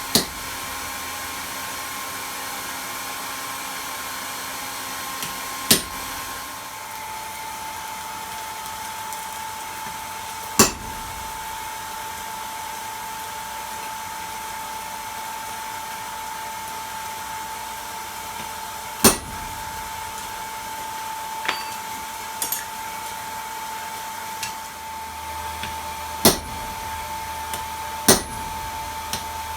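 Forge air blower running steadily with a constant whine whose pitch drops slightly about seven seconds in, while about eight sharp metal strikes ring out at irregular intervals of a few seconds.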